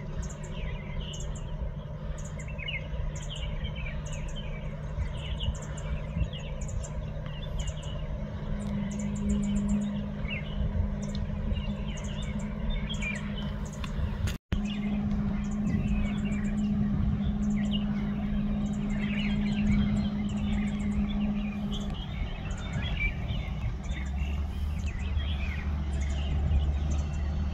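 Outdoor ambience of many small birds chirping over a steady low hum of distant engine noise; a deeper rumble joins near the end. The sound drops out for an instant about halfway through.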